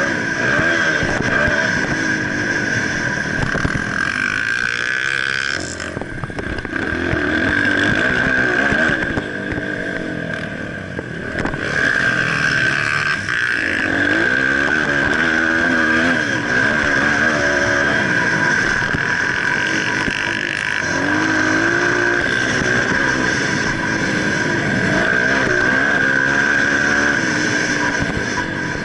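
Motocross dirt bike engine being ridden hard, revving up and easing off again and again, its pitch rising and falling every few seconds, with a steady high whine throughout.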